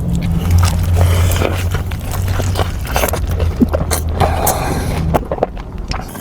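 Biting and chewing crunchy food close to the microphone, with a run of sharp crackles and clicks. A steady low hum lies underneath and stops about five seconds in.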